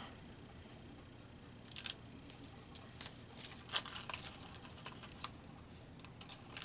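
Paper being torn by hand in a string of short rips and crinkles through the middle of the stretch, with one sharper crack near the middle.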